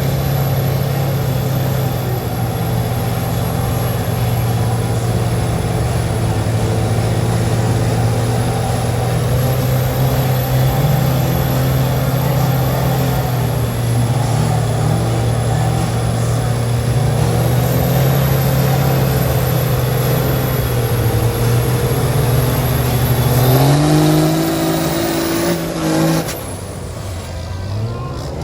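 Big truck engine held at high revs under heavy load in a truck tug. Its pitch climbs near the end, then drops off suddenly as the throttle is released.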